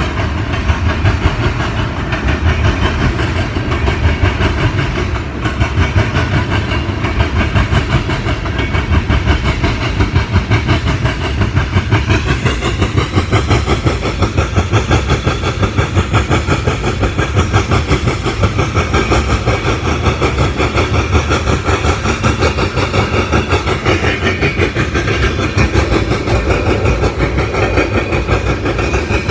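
Illinois Central mixed freight train rolling past, its freight cars' wheels clacking rhythmically over the rail joints.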